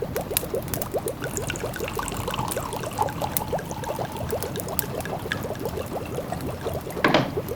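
A pot of food simmering, bubbling steadily with quick little pops, with the sharp crackles of a wood fire scattered through it and one louder crackle near the end.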